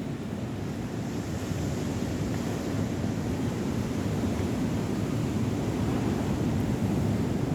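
Sea surf and wind buffeting the microphone: a steady rushing noise that grows a little louder about a second in.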